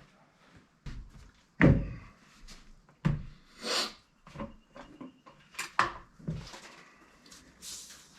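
Irregular knocks, clunks and clicks of hard objects being handled and set down, with two short hissing rustles. No chainsaw is running.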